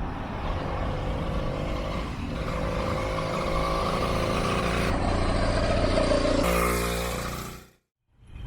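Small kit-built engine on a motorized mountain bike running under way, its pitch shifting with the throttle; the sound fades out shortly before the end.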